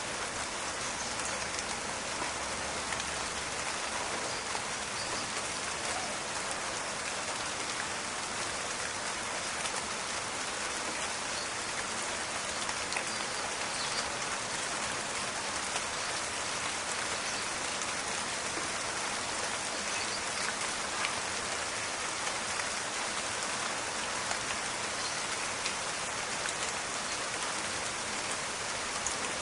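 Steady rain falling in a forest, a dense even hiss with scattered crackling drops.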